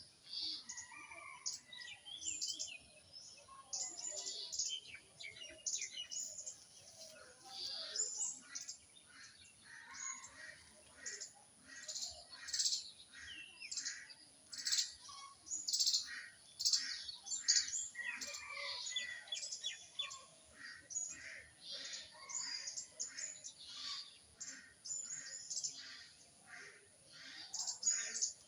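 Songbirds chirping and calling, many short quick chirps with a few gliding whistled notes, several birds at once.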